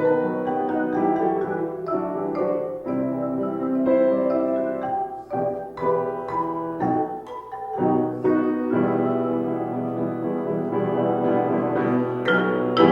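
Instrumental music of struck, ringing pitched notes, a melody with chords, on a keyboard or mallet instrument.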